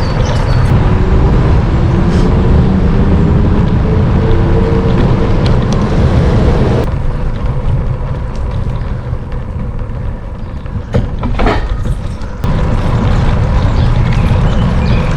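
Wind rushing over the microphone and tyre noise of a bicycle moving through city traffic, with a motor vehicle's engine rising in pitch during the first few seconds. The rush falls away for about five seconds in the middle, with a few clicks, then comes back.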